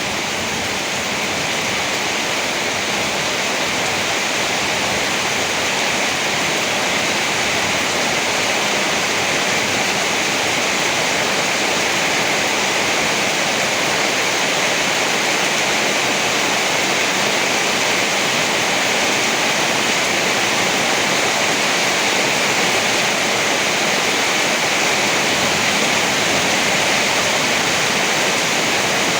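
Steady heavy rain: an even, unbroken hiss with no thunder or gusts standing out.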